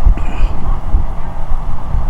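Wind buffeting the microphone in a heavy, uneven low rumble while riding a motorcycle, with road and engine noise underneath.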